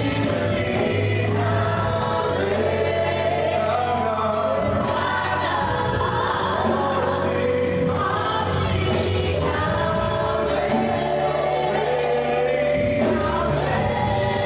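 Gospel choir singing with band accompaniment, voices holding long notes over a steady bass.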